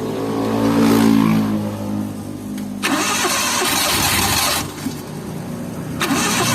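Suzuki F6A 12-valve three-cylinder engine in a Multicab catching briefly and revving up as the accelerator is pressed, then dying away. It is then cranked on the starter in two abrupt stretches without staying running, the stalled engine refusing to keep going even though the plugs are firing.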